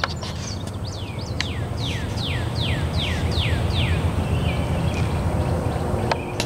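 A songbird singing a run of about seven clear whistled notes, each sliding down in pitch, over a low steady rumble.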